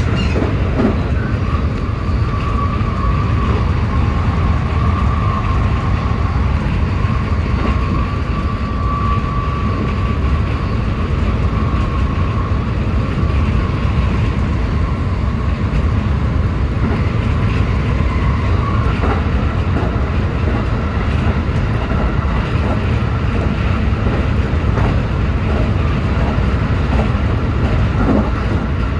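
JR West 223-series electric train running at speed, a steady rumble of wheels on rail. A high steady whine carries through the first dozen seconds and then fades, and a few short clicks come near the end.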